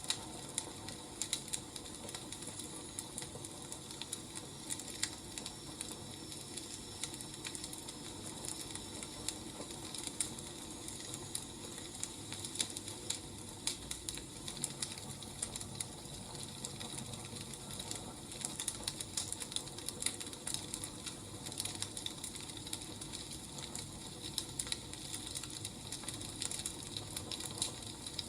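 Wood fire crackling: irregular snaps and pops over a steady low hiss.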